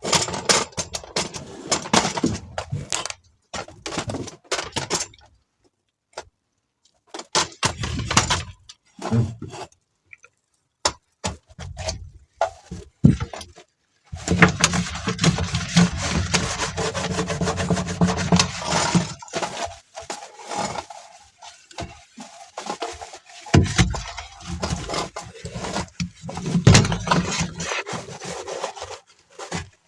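Scraping, rubbing and knocking of things being handled and scrubbed, coming in several separate stretches with short breaks of silence; a long stretch of steady scrubbing runs through the middle.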